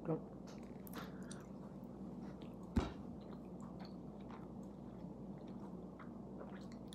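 A person chewing a mouthful of plant-based Italian sausage with ketchup, faint soft mouth sounds with small clicks, and one sharper click about three seconds in, over a faint steady hum.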